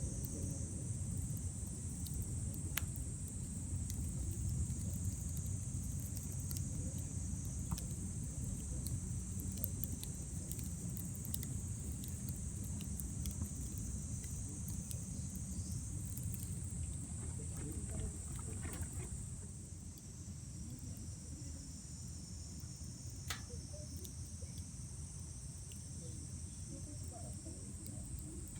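Wood bonfire burning, with a low rumble and scattered sharp crackles and pops, over a steady high chorus of night insects.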